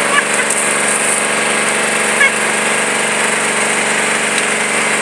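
Tractor engine running steadily at a constant speed, with a rough, rattly tone.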